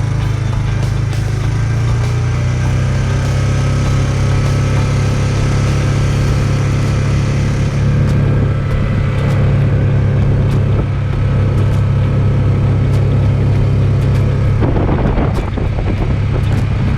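Vehicle engine running steadily while driving slowly, a constant low hum, with a brief noisy swell near the end.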